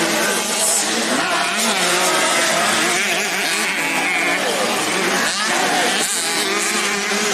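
Several 85cc race motorcycles running together on a dirt track, their engines revving up and down one over another.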